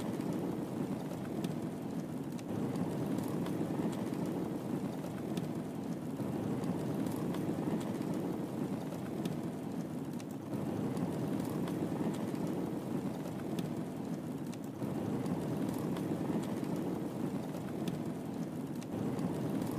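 Wood fire burning in a fireplace: a steady low rush of flames with scattered faint crackles and pops.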